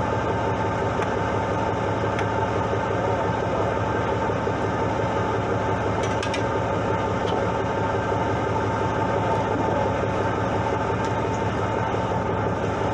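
Fishing boat's engine running with a steady drone.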